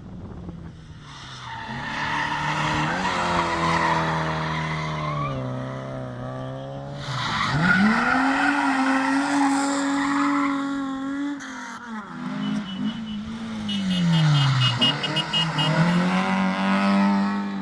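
Historic rally car engines at racing revs, pitch climbing sharply under acceleration and dropping as they brake and shift, several times over, with tyre squeal.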